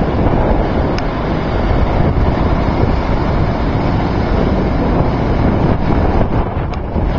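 Strong wind buffeting the microphone over storm waves on Lake Superior, a loud, steady rumbling rush with no distinct breaks.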